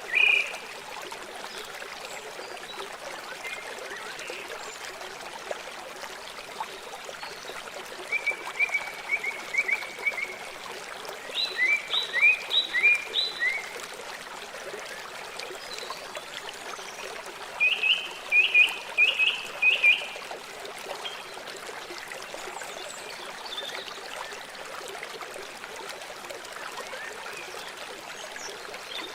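River water flowing in a steady rush. Runs of short, high chirping calls, about four a second, come in three groups through the middle of the stretch.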